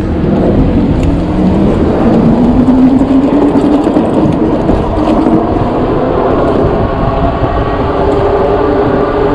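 Electric bike hub motor whining as the bike speeds up, rising in pitch over the first few seconds and then holding steady, over heavy wind rush on the microphone while riding.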